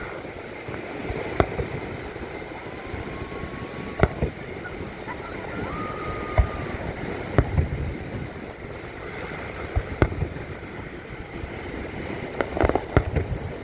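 Fireworks exploding: about seven sharp bangs at irregular intervals, a few close together near the end, over a steady outdoor background noise. Two faint held whistling tones come in between.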